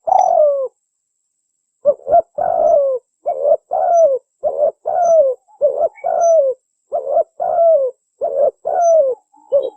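Spotted dove cooing: a run of coos, each a short note followed by a longer one that falls in pitch, repeating steadily after a pause about a second in.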